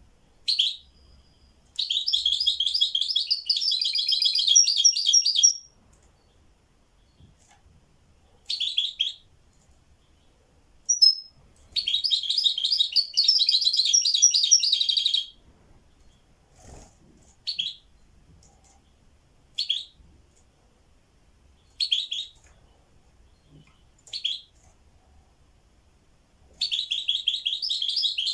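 A songbird singing: three long phrases of rapid, trilled high notes, separated by single short chirps and pauses.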